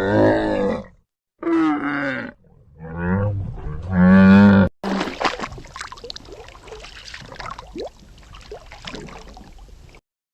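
Four low, wavering animal calls, each about a second long, in the first half; then a quieter, scratchy stretch of clicks and short chirps that cuts off near the end.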